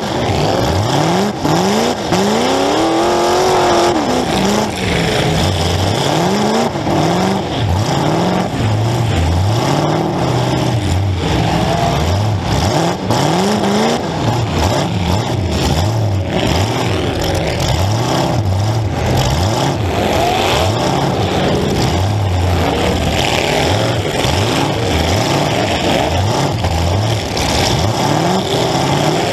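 Demolition derby car's engine, heard from inside the car, revving up and falling back again and again as it accelerates and backs off, with scattered bangs and knocks of collisions.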